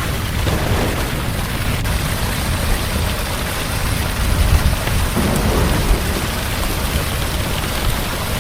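Heavy rain falling steadily with a low thunder rumble underneath that swells about halfway through.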